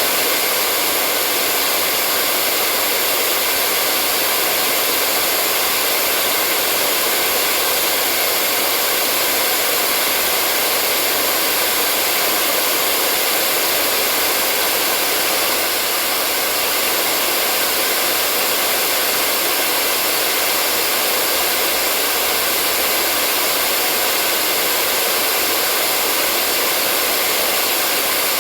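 Hair dryer blowing steadily: an even, unchanging rush of air with a faint motor hum.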